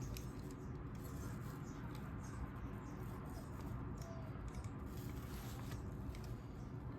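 Faint clicks and light scraping of small parts being handled while temperature-probe wire loops are fitted to terminal screws, over a low steady background hum.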